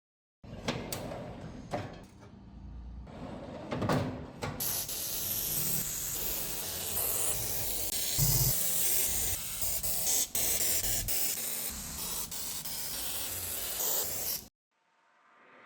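A few clicks and knocks, then a steady, loud spraying hiss for about ten seconds that cuts off suddenly.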